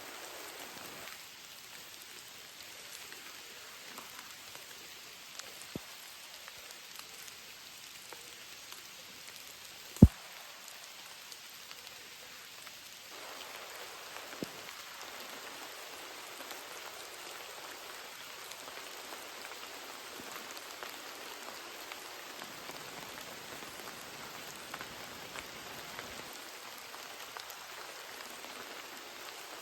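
Steady heavy rain falling, a little louder from about halfway through. A single sharp knock about a third of the way in is the loudest sound.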